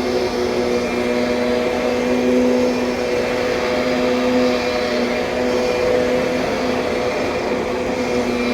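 2007 Kirby Sentria upright vacuum cleaner running steadily: a constant motor hum with several steady tones over a rush of air.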